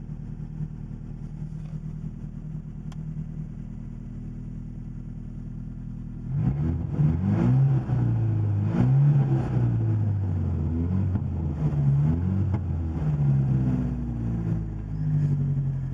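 1980 Porsche 924 Turbo's turbocharged 2.0-litre four-cylinder engine idling steadily, then revved several times from about six seconds in, its pitch rising and falling with each blip of the throttle, settling back to idle near the end.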